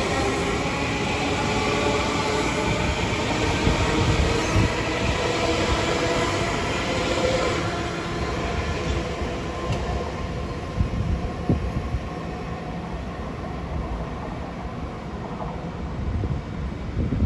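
Long Island Rail Road train passing on the tracks. A whine of several steady, slightly falling tones over a heavy rumble fades after about eight seconds, leaving a lighter rumble with scattered wheel clicks.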